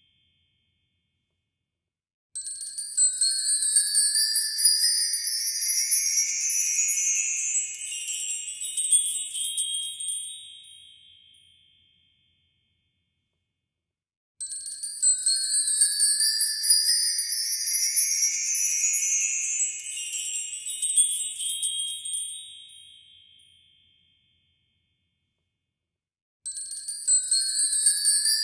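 An edited-in jingling, chime-like sound effect that rises slowly in pitch and fades out, played twice with dead silence between, and starting a third time near the end.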